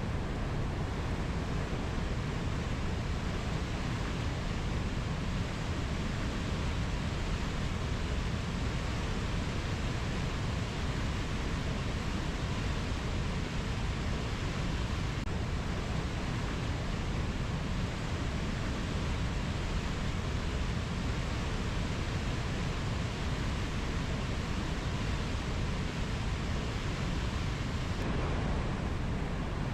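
Rainforest nature ambience as a steady, even rushing noise, heaviest in the low end, with no distinct bird or insect calls.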